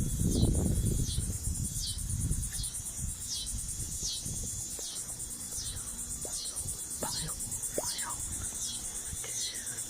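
Insects, crickets or similar, chirping in a steady outdoor chorus: a high, even buzz with a short falling chirp about every two-thirds of a second. A low rumble, such as wind on the microphone or handling, is heard in the first second.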